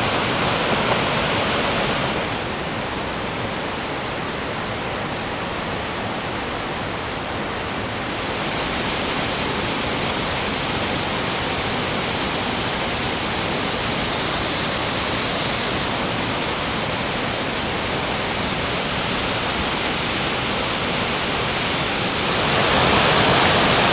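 Rushing water of a mountain stream pouring over rocks, a steady rumbling rush. Its tone turns duller about two seconds in, brighter again about eight seconds in, and fuller near the end.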